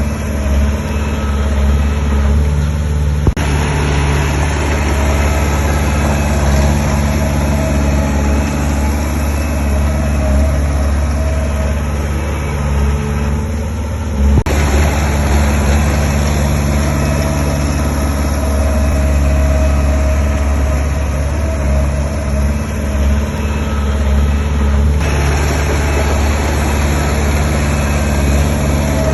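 Heavy construction machinery's diesel engine running steadily with a deep rumble. The sound shifts abruptly three times, about 3, 14 and 25 seconds in.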